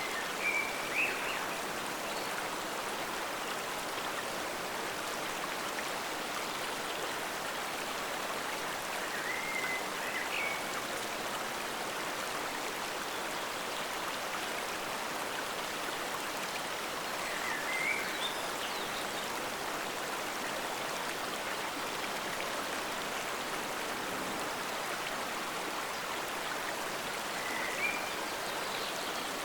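Stream water flowing steadily, a constant rushing wash. Four times, a brief higher chirp-like sound rises out of the flow.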